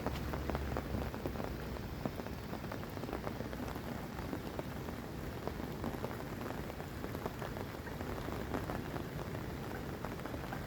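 Steady rain falling, with a dense scatter of small drop ticks over an even hiss.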